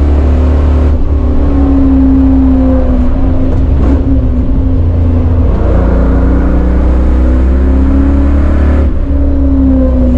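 Chevrolet Caprice's LT1 V8 heard from inside the cabin at track speed over a heavy low road-and-wind rumble. The engine note eases off about a second in as the driver lifts and brakes for a corner. It then climbs again under throttle and eases off once more near the end.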